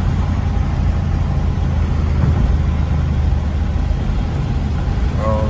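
Audi S5's engine running steadily inside the cabin while driving, a constant low rumble with road and wind noise.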